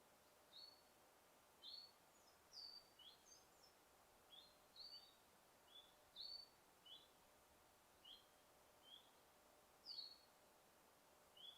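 Bird chirping faintly in a forest: short, high notes, some sliding down and some up, about one or two a second at an uneven pace, over a faint steady hiss.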